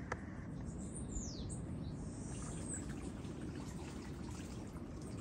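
A bird calls with a couple of high falling whistles about a second in, over a steady low rumble of wind and shallow water. A single sharp click comes right at the start.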